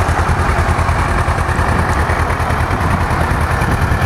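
Kawasaki Versys 650cc liquid-cooled parallel-twin engine idling steadily, with a rapid even exhaust pulse.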